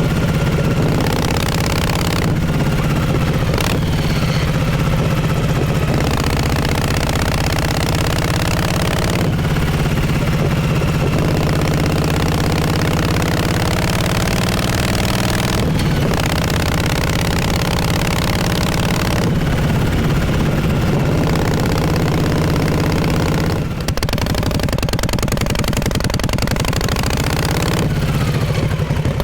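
1948 Harley-Davidson Panhead V-twin exhaust while riding, running steadily with the engine pitch climbing and falling back several times as speed changes.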